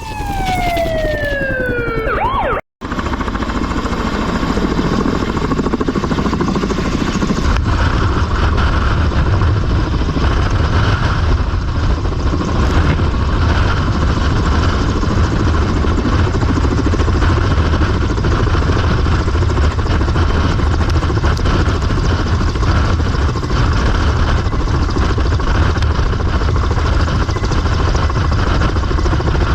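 A falling, siren-like glide of several tones for about two and a half seconds, then a sudden cut into the steady, loud noise of a rescue helicopter's engines and rotor, growing heavier in the low end after several seconds.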